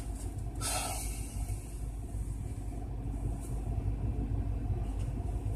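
Car engine idling, a steady low rumble heard from inside the cabin, with a brief noise about half a second in.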